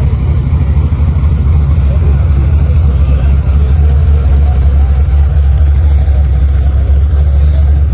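Steady low rumble of a running car, loud and unchanging throughout.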